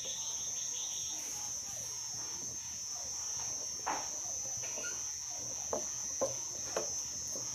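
Crickets trilling in one continuous, steady high-pitched chorus. A few faint crackles from the wood cooking fire are scattered through it.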